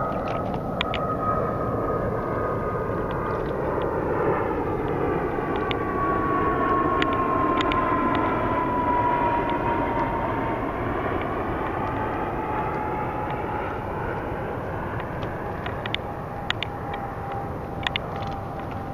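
A low-flying airplane passing overhead: a loud rushing noise that swells to a peak midway and then fades, with a whine that falls in pitch as it goes by. A few light clicks and knocks sound now and then.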